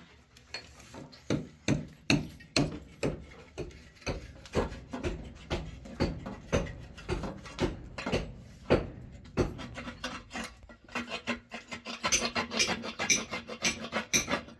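Repeated scraping strokes of a hand tool at a steady pace of about two a second, coming faster and harsher in the last few seconds.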